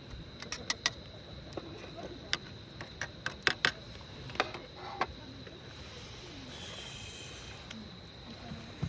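Autumn insects trilling steadily at one high pitch, with a quick run of sharp clicks and knocks during the first five seconds.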